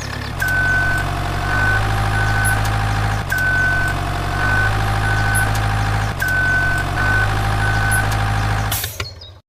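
Toy RC construction vehicle's electronic sound module looping a low engine rumble with a warning beep pattern: one long beep and two short beeps, three times over. It cuts off suddenly near the end.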